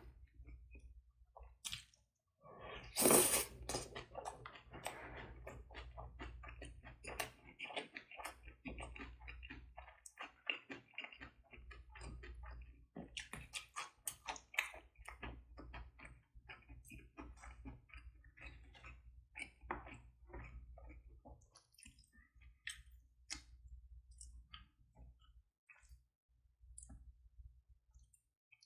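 Close-miked eating of garlic bossam wraps (boiled pork in leaves): wet chewing, smacking and small mouth clicks, with a louder burst about three seconds in.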